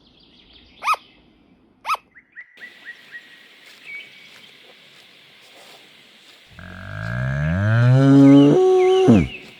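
A sugar glider gives two short, sharp yaps about a second apart, then a quick run of faint chirps over a soft hiss. From about two-thirds of the way in, a long, deep bellow, the loudest sound here, rises steadily in pitch and drops away at the end, with small high chirps over its close.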